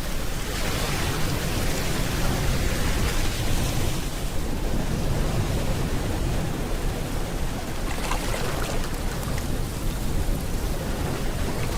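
Steady rain falling, mixed with the low rush of ocean waves. The hiss swells and eases slowly, about every few seconds.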